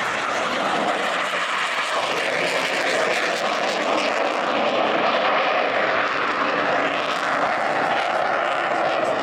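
Fighter jet engine noise, loud and steady, a dense rushing sound throughout.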